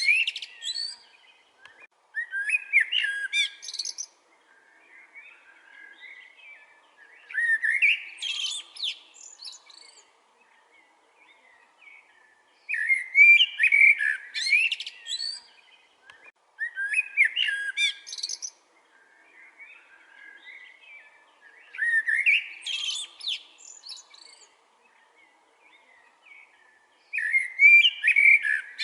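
A songbird singing a short, fast, varied phrase over and over, about every four to five seconds, with quieter calls between the phrases.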